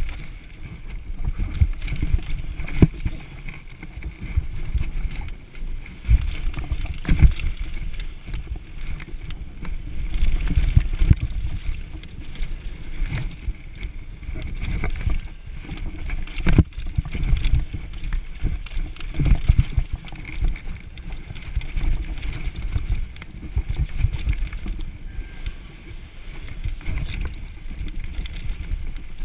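Mountain bike riding down a rough downhill trail: a steady low rumble of tyres over the ground, broken by frequent rattles and knocks as the bike hits bumps.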